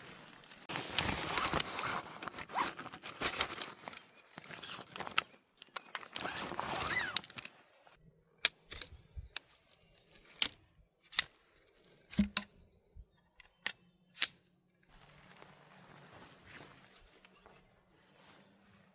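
Camping gear being handled: several seconds of rustling and scraping, then a series of separate sharp clicks and knocks.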